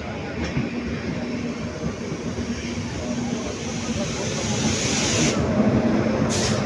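Indian Railways passenger train's steady rumble and hum, with a hiss that swells over a couple of seconds and cuts off suddenly about five seconds in, and a short second hiss near the end.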